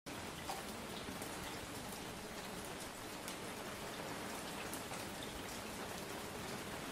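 Steady rain: an even hiss flecked with many small drop ticks, unchanging throughout. It is the cover track of a subliminal recording, with its affirmations mixed quietly beneath.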